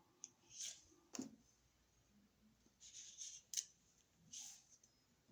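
A few faint clicks and short scrapes from electrical wires and a wall receptacle being handled in the outlet box.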